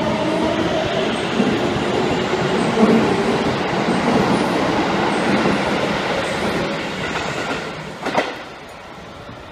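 Electric commuter train running past close by along a station platform, a steady rumble of wheels and running gear that fades from about seven seconds in. A sharp click about eight seconds in, after which a quieter, more distant train sound carries on.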